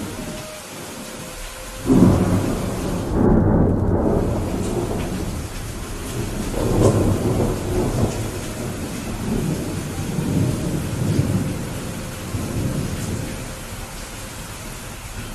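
Steady rain, with thunder breaking suddenly about two seconds in and rolling on as a long rumble that swells again several times before easing near the end.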